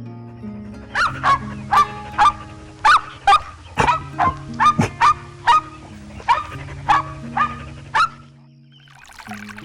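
An animal's short, high, yapping calls, about two a second for seven seconds and then stopping, over background music with steady held notes.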